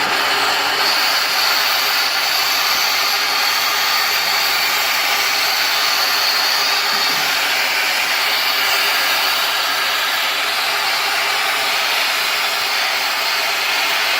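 Steam jetting out of a sauna stove's steam outlet with a steady, loud rushing hiss, carrying a faint high whistle through the first half.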